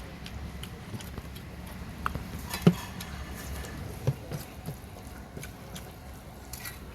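Faint, scattered clicks and taps of plates and hands at a meal, one sharper knock about two and a half seconds in, over a low steady hum.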